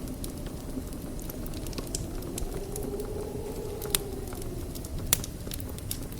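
Wood fire burning in a fireplace: a steady low rumble of the flames with scattered crackles and two sharp pops about four and five seconds in.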